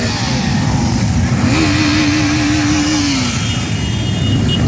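Motorcycle engines running, with one steady note held for about two seconds in the middle before it drops away.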